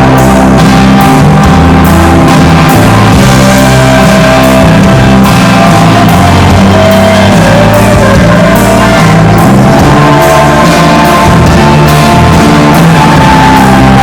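Rock band playing live: guitar and drum kit driving a loud rock song, with a lead line bending up and down in pitch.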